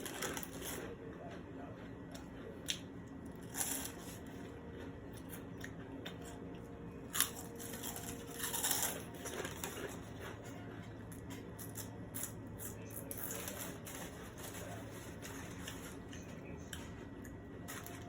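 Close-miked eating sounds: chewing and mouth noises with a few short, sharp crackles or crunches scattered through.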